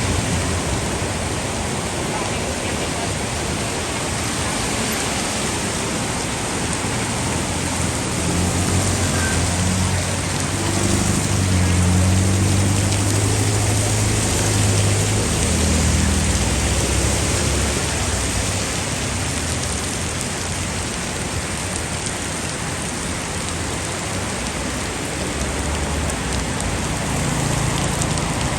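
Heavy rain pouring down in a steady hiss, with a low rumble swelling up through the middle and fading again.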